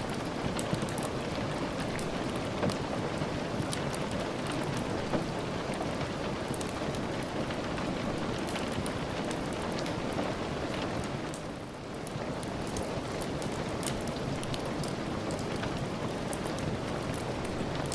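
Steady heavy rain, a dense hiss with scattered sharp drop ticks, easing briefly for a moment about twelve seconds in.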